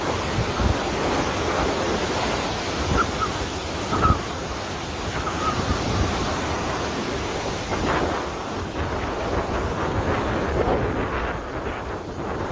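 Wind buffeting the microphone over a steady wash of surging seawater, rising and falling in gusts.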